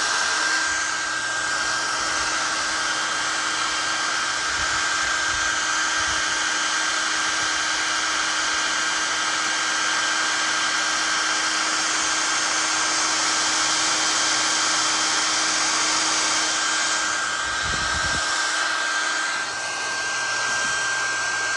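Handheld hair dryer running steadily: a constant whirring rush of air with a steady high whine.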